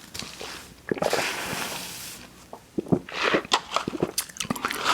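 Close-miked eating sounds: a person biting and chewing fast food, with a stretch of hissing noise about a second in and a run of crackling, clicking chews in the second half.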